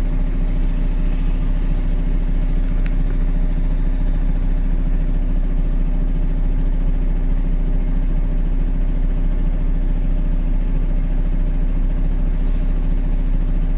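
Dump truck's diesel engine idling steadily, heard from inside the cab, with a constant low rumble.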